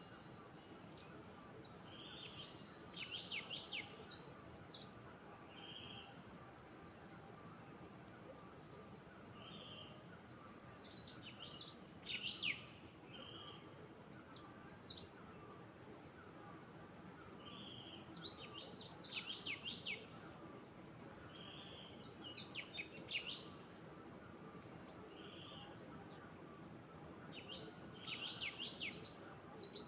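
A songbird singing a short, high, rapid phrase that repeats about every three and a half seconds, with softer, lower single notes between the phrases, over a faint steady background.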